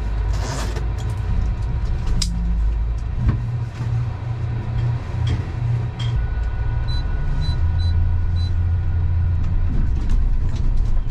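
Motor vehicle engine running with a steady low rumble, with a few sharp clicks and four short high beeps in the middle.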